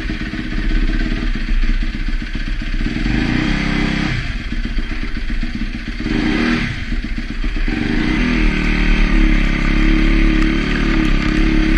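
Yamaha YZ250F dirt bike's four-stroke single-cylinder engine under way, its pitch dropping and climbing back up twice as the throttle is rolled off and opened again, then holding higher near the end.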